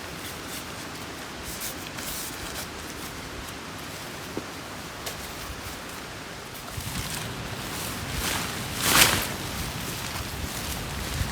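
Steady outdoor background noise with scattered light rustles and clicks, and one louder rustling swell about nine seconds in.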